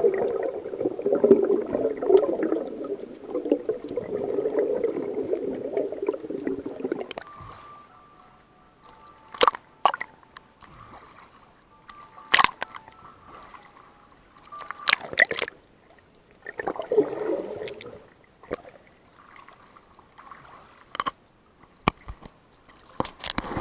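Water sloshing and gurgling for about seven seconds, then much quieter, with scattered sharp clicks and knocks and another short slosh a little past the middle.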